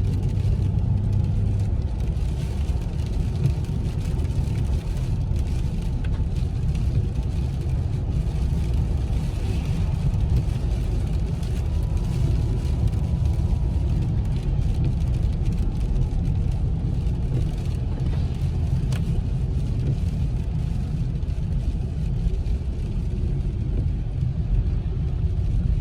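Steady low road and engine rumble inside the cabin of a car driving along a highway.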